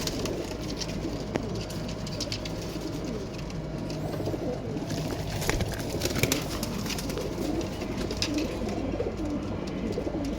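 Domestic pigeons cooing continuously, with scattered short rustles and flutters.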